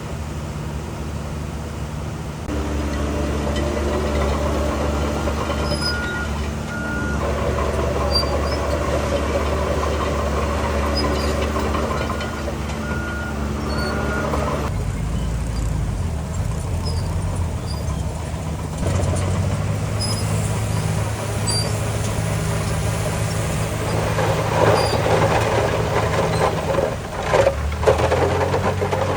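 Heavy diesel earthmoving machinery running, its engine note shifting with load several times. A reversing alarm beeps in short runs twice.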